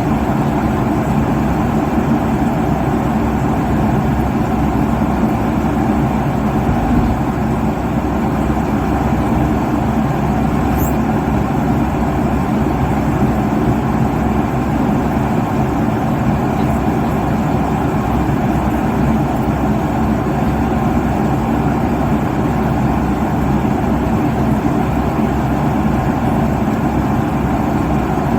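Steady airliner cabin noise at cruise altitude, around 35,000 feet: an even rush of engine and airflow noise with a low hum beneath it, holding level throughout.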